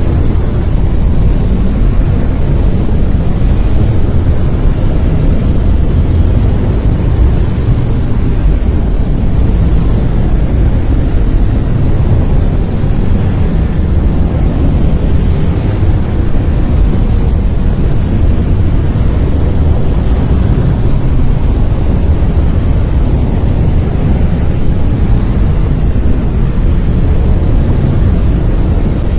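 Brown noise: a steady, deep hiss weighted heavily toward the low end, without any change in level or character.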